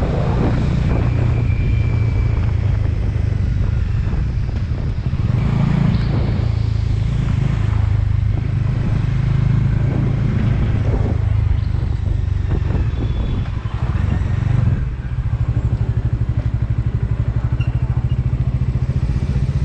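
Motorcycle engine running while riding, with wind and road noise over it. About fifteen seconds in the sound dips briefly, then the engine settles into a steadier, evenly pulsing note.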